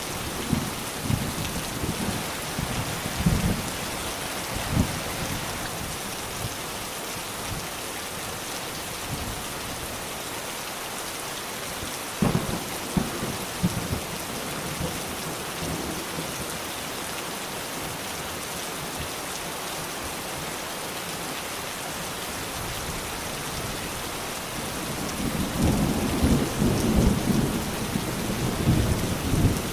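Steady rain falling with thunder: low rumbles in the first few seconds, a sharp crack about twelve seconds in, and a longer rolling rumble near the end.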